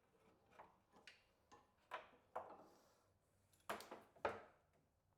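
Irregular, sharp clicks and knocks of hand tools and parts being handled while hoses are worked loose, about seven in all, the two loudest close together a little past the middle.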